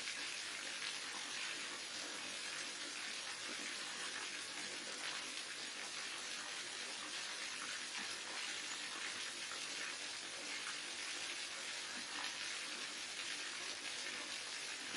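Waterfall: falling water splashing in a steady, even hiss that does not change.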